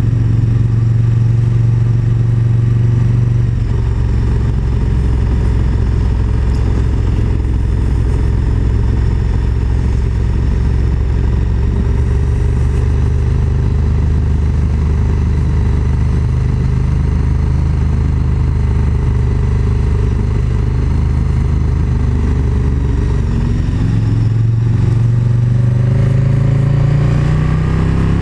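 KTM 1290 Super Duke GT's V-twin engine pulling along at a steady speed. Its note drops about three and a half seconds in, then rises as the bike accelerates near the end.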